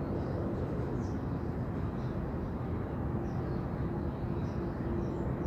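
Steady low rumble of outdoor noise with a faint steady hum, and a few faint, short high bird chirps over it.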